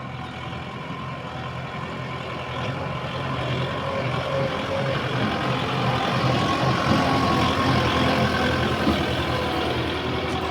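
Kubota 4x4 tractor's diesel engine running, growing louder until about two-thirds of the way through and then easing slightly.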